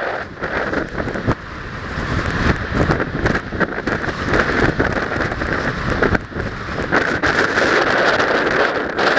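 Strong wind buffeting the microphone, a loud rushing noise that rises and falls in gusts.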